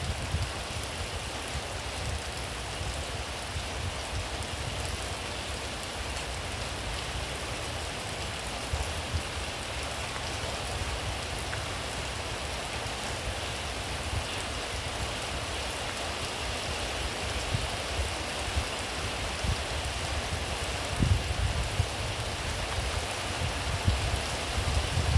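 Steady rain falling, a continuous even hiss of drops on surfaces, with a few louder low thuds near the end.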